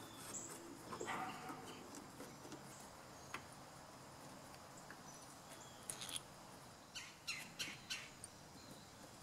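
Faint bird chirps, a quick run of short calls in the second half, over quiet handwork: light clicks of a screwdriver on a small engine's carburetor.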